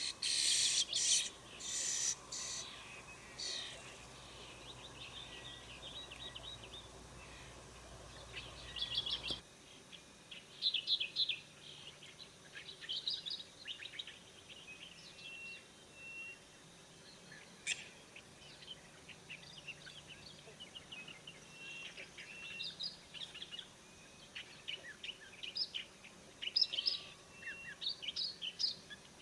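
Starling chick's begging chirps: rapid, high, short calls in irregular bursts, loudest and harshest in the first few seconds. A low background hum drops out about nine seconds in.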